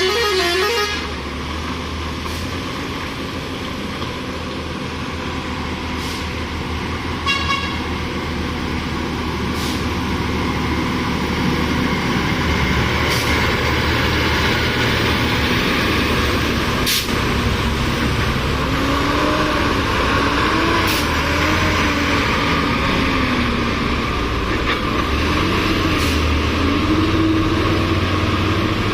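Heavy truck engine running with road noise, getting louder after about twelve seconds, and short horn toots right at the start and about seven seconds in.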